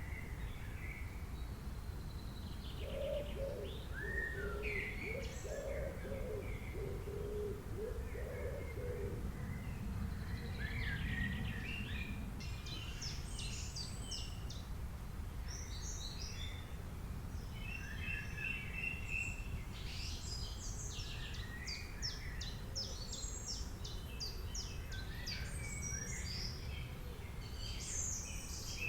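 Several wild birds calling and singing: a low, repeated call in the first third, then many overlapping high chirps and quick trills over a steady low background rumble.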